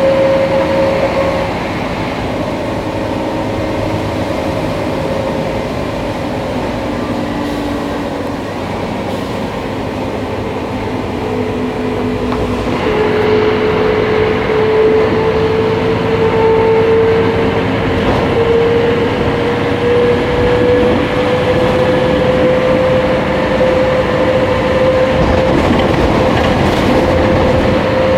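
Scania K310IA bus with a ZF automatic gearbox running under way: a steady drone with a clear whine over it. The whine drops in pitch and the sound grows louder about halfway through, then the whine climbs slowly.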